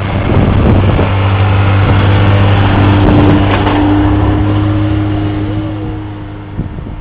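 Snowmobile engine running at a steady pitch, growing louder to a peak about three seconds in, then fading as it moves away.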